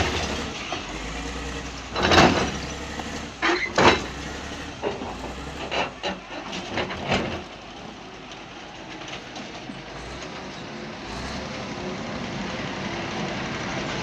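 Heavy quarry machinery engine running steadily, with a handful of sharp knocks and clanks in the first half.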